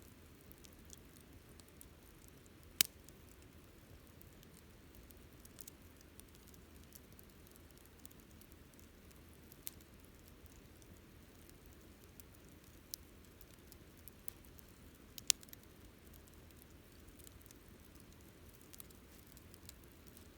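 Wood bonfire burning quietly, crackling with scattered sharp pops. The two loudest pops come about three seconds in and near fifteen seconds.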